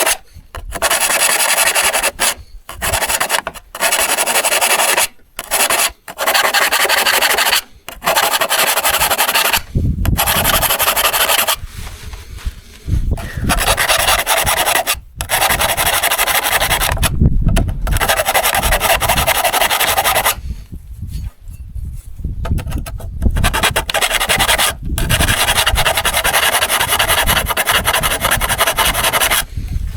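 Rasping hand strokes worked against the steel blade of a hand saw, the abrading of rust or teeth. At first they come as short strokes with brief pauses, then after about ten seconds as longer, nearly continuous runs.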